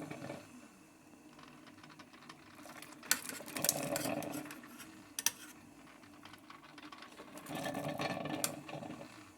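Ramen noodles being stirred in a coffee maker's glass carafe, in a few short bouts of stirring with light clinks and taps between.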